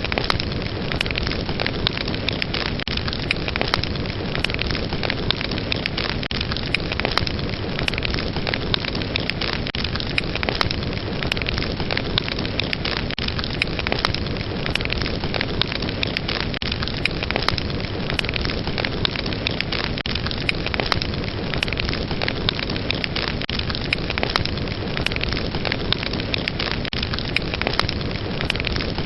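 Fire crackling steadily: a dense rush of burning with frequent sharp pops and snaps throughout.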